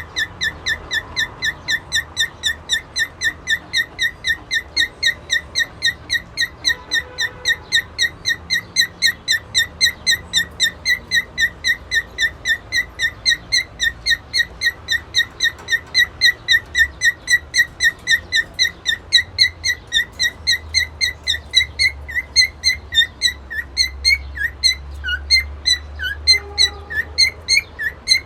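Cockatiel chirping one short, high note over and over, evenly at about three or four a second; in the last few seconds the chirps turn uneven, some falling in pitch.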